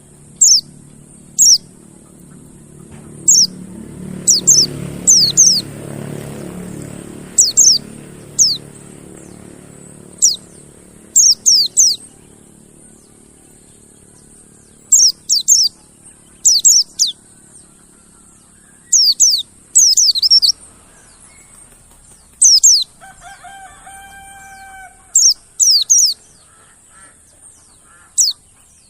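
Mountain white-eye (pleci monty) calling: short, high, falling notes in quick clusters of two to four, repeated every second or two. A lower, held call with several overtones comes in briefly about two-thirds of the way through.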